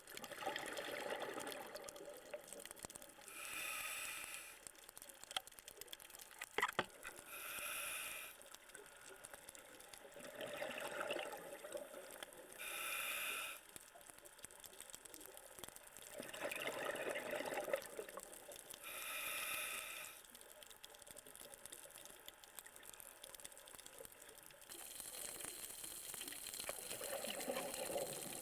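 Scuba diver breathing through a regulator underwater: each breath is a short hiss of the regulator followed by a longer rush of exhaled bubbles, about four breath cycles in all, with a steadier hiss near the end.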